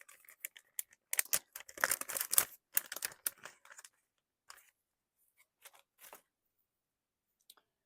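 Rustling, crinkling and small clicks of craft materials being handled and sorted, busy for the first few seconds, then only a few scattered rustles.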